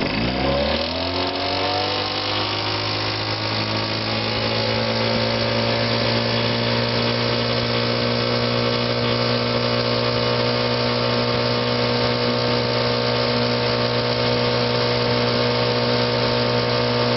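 1957 Sea King 5-horse two-stroke outboard motor running, its pitch climbing over the first couple of seconds and then holding steady. It sounds good, freshly fitted with a new fuel pump and water pump.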